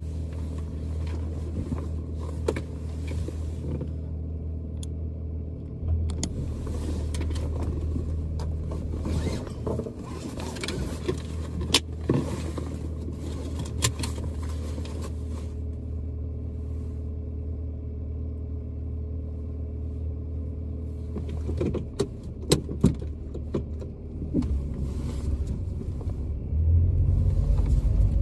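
Car engine running steadily as a low hum inside the cabin, with a few scattered clicks and knocks; the low rumble grows louder near the end.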